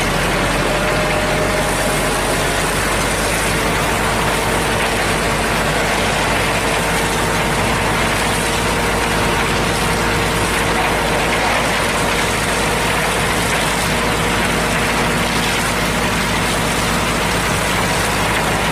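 Diesel engine of a HINO cement mixer truck running steadily at an even speed, with a constant wash of noise over it.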